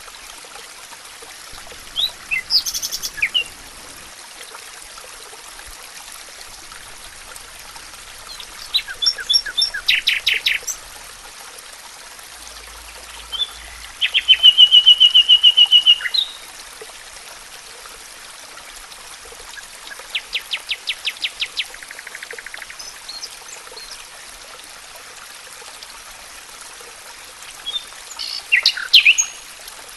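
Wild songbirds singing in short phrases every few seconds, five in all. The loudest is a rapid, even trill lasting about two seconds in the middle. Under the songs is a steady hiss of running water.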